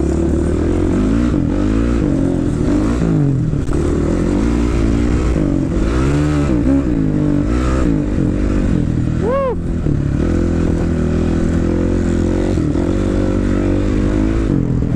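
Motocross dirt bike engine revving up and down repeatedly as the throttle is worked around the track. About nine seconds in there is one quick, sharp rise and fall in pitch.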